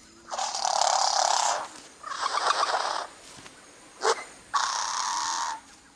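Male bowerbird giving harsh, rasping calls in courtship display: three calls of about a second each, with a short sharp note between the second and third.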